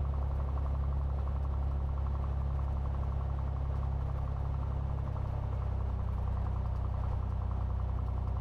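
Cessna 182T's six-cylinder Lycoming IO-540 engine running steadily at low ground power with the propeller turning, its note shifting slightly about five seconds in.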